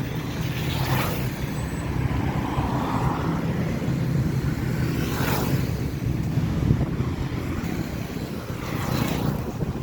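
Road traffic: a steady engine rumble with cars passing close by, three swishing passes about four seconds apart.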